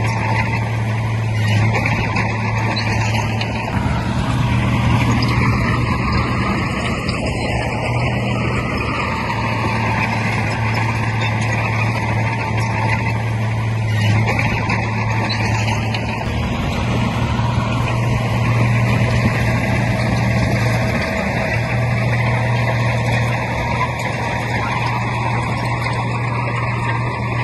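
Heavy earthmoving machine's diesel engine running steadily, a low drone that swells and eases a little.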